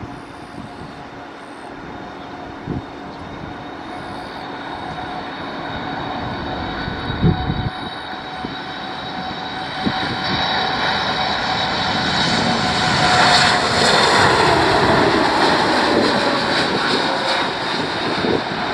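Boeing 787-8 jet at takeoff power, its turbofan roar and whine growing steadily louder as it approaches, loudest about two-thirds of the way through and then easing a little. A whining tone slides down in pitch as the jet passes.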